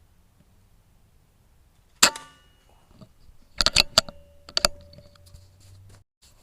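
Theoben Rapid 7 air rifle firing once, a sharp crack with a short ringing tail, about two seconds in. A quick run of sharp metallic clicks follows, and one more click a moment later, as the bolt is worked to chamber the next pellet.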